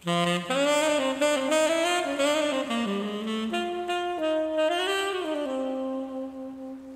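Jazz saxophone melody that starts suddenly, runs through a short phrase of changing notes and ends on a long held note that cuts off.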